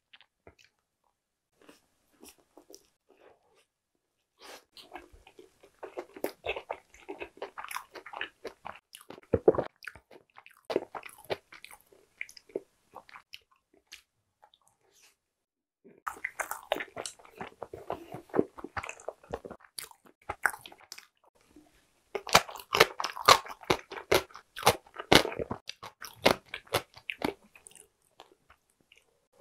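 Close-miked chewing and biting of a soft filled steamed bun. It comes in two long spells of dense mouth noises, with a few seconds' pause between them.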